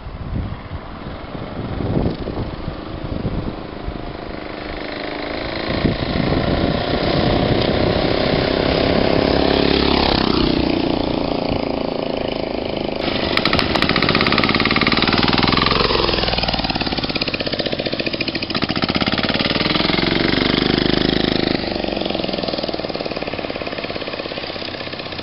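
Turbocharged single-cylinder diesel engine, a copy of a 10 hp Yanmar, running on a mini bike with a clattering beat. It builds up over the first few seconds, and its pitch rises and falls several times, dropping sharply twice, as it is revved and ridden.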